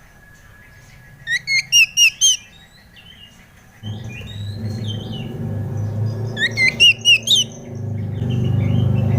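Oriental magpie-robin (kacer) song: two quick runs of about five sharp, loud chirps with softer whistled notes between. A steady low hum comes in about four seconds in and runs under the song.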